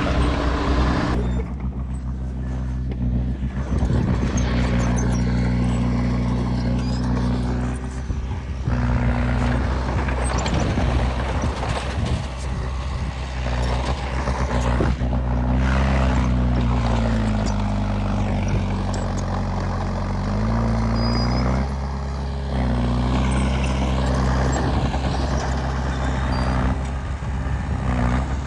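Komatsu D20P bulldozer's diesel engine working under load, with clattering and knocks over it. Past the middle the engine speed sags for several seconds and then picks back up.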